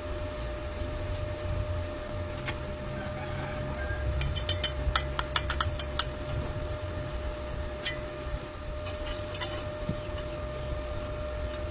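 Sharp clinks and taps, a quick run of them about four to six seconds in and a few more later, over a steady low hum with a faint steady tone.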